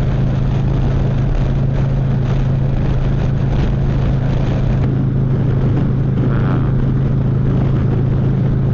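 Harley-Davidson Street Glide Special's V-twin running at a steady, unchanging pitch while riding, heard with road and air noise from the moving bike.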